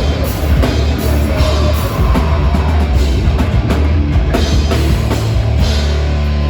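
Live heavy metal band playing loud: drum kit and electric guitars. Near the end the drums stop and a held guitar chord rings on.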